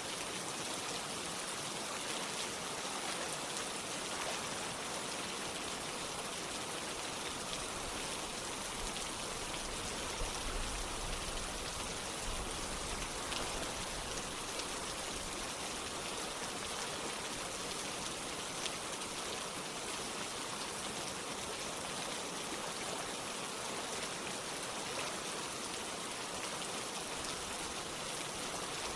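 Steady rain together with running water: a dense, even hiss of falling drops that holds constant throughout.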